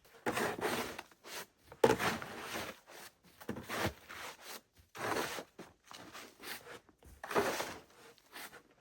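Footsteps trudging through deep snow, one slow step roughly every second.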